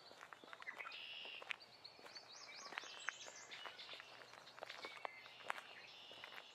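Several birds singing in a forest, with a quick run of high up-and-down notes about two to three seconds in, over soft footsteps crunching on the forest floor.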